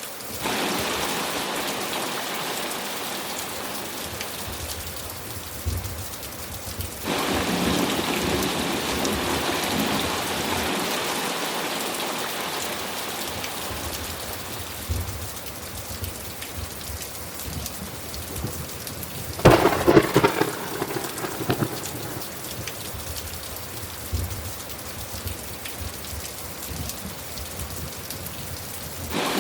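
Steady heavy rain in a thunderstorm, its level stepping up sharply twice in the first third. About two-thirds of the way through a close thunderclap cracks, the loudest sound here, and rumbles on for a couple of seconds.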